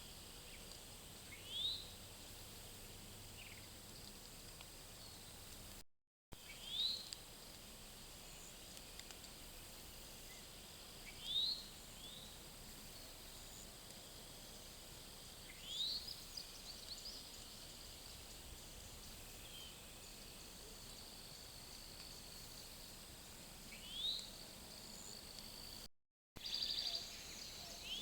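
Outdoor ambience: a bird repeats a short, quick rising call every four or five seconds over a steady high insect hum, broken twice by a brief dropout.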